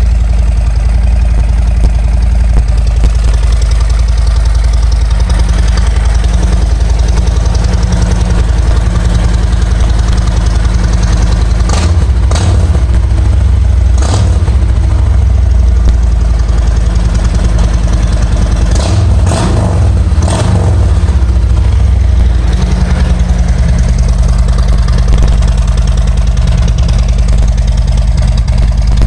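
A 2017 Harley-Davidson Road Glide's Milwaukee-Eight 107 V-twin idles through freshly fitted Rinehart 4-inch exhaust. The throttle is blipped in a short run of revs about twelve seconds in and again about nineteen seconds in, each time dropping back to idle.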